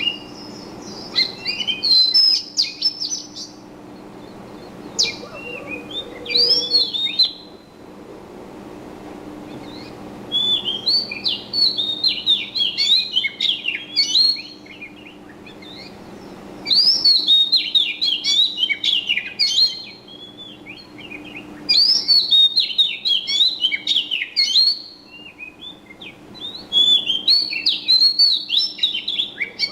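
Small birds chirping in rapid bouts of quick high twittering calls, each bout lasting a few seconds with short pauses between, over a faint steady low hum.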